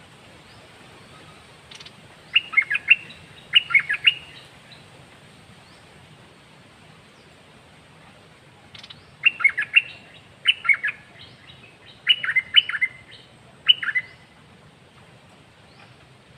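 A caged songbird singing short phrases of quick, bright notes: two phrases a couple of seconds in, then four more in a row after a pause of several seconds.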